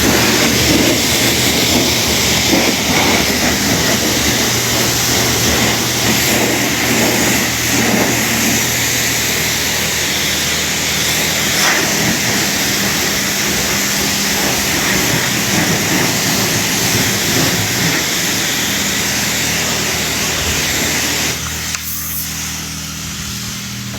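High-pressure car-wash spray wand blasting water against a car body: a loud, steady hiss of spray over a low hum. The spray eases off shortly before the end.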